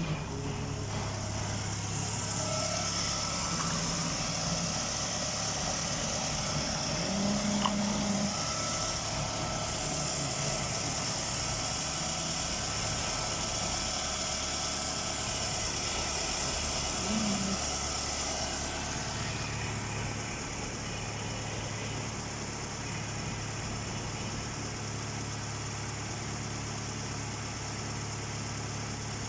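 Ford Focus 2 1.8-litre QQDB four-cylinder petrol engine idling steadily on test. A high hiss in the engine sound eases about two-thirds of the way through.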